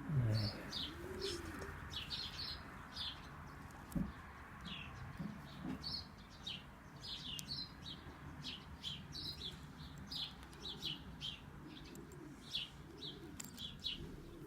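Pigeons cooing in slow, low calls that rise and fall, under a steady run of quick, high chirps from other birds. A single sharp tap about four seconds in.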